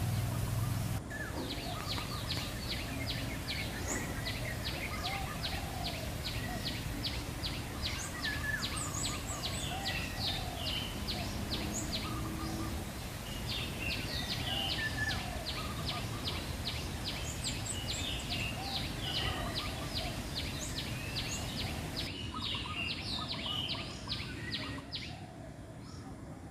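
Wild small birds chirping and calling, over a fast, even series of high ticks about four a second. The ticking drops away and everything grows quieter in the last few seconds.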